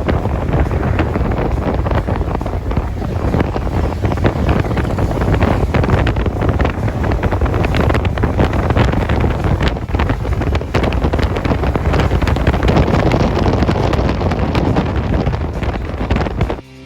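Wind rushing and buffeting over the microphone of a camera riding on a moving motorcycle, loud and steady, cutting off abruptly near the end.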